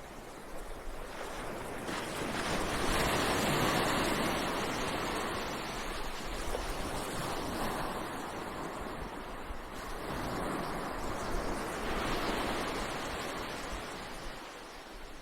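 Ocean waves breaking on a beach: a steady wash of surf that swells as a wave comes in about two seconds in, eases off, and swells again near the end.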